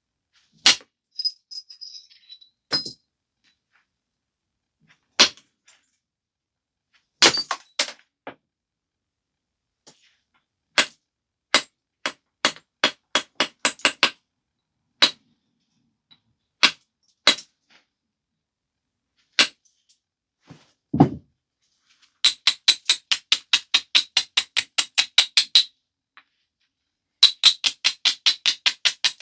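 A stone biface being worked by hand: sharp single clicks as flakes are struck off the edge, one dull thump about two-thirds of the way through, and two quick even runs of light ticks, about five a second, near the end.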